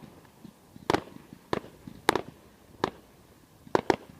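Fireworks going off: about six sharp bangs at irregular intervals, the last two in quick succession near the end.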